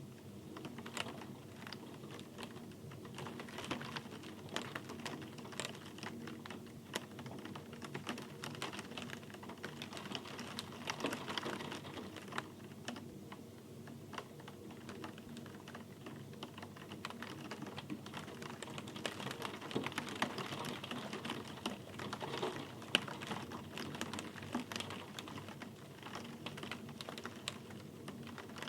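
Steady rain: a dense, irregular patter of drops striking hard surfaces over a soft hiss.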